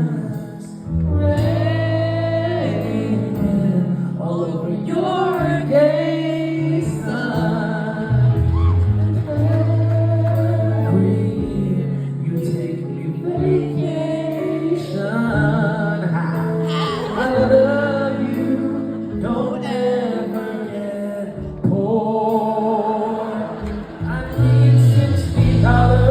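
A song performed live: a male voice singing a melody over instrumental accompaniment with long held bass notes.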